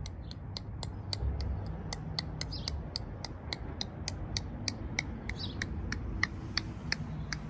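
Short, sharp high chirps repeating evenly, about three or four a second, with a few softer chirps among them: a small bird calling. A low steady rumble lies underneath.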